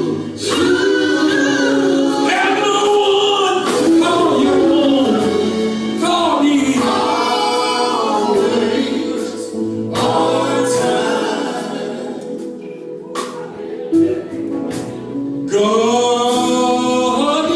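Gospel vocal group singing together in harmony.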